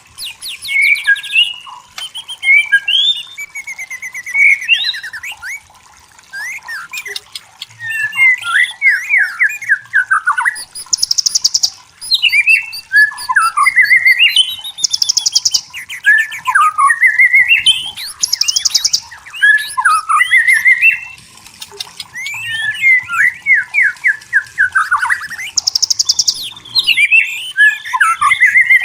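White-rumped shama singing: a continuous run of varied, rapidly gliding whistled phrases, broken several times by short harsh buzzy notes.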